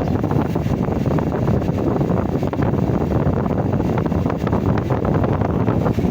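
Air conditioner running with its replacement compressor and fan during refrigerant charging, a steady rushing noise with air buffeting the microphone. The system is still undercharged, at about 40 on the gauge.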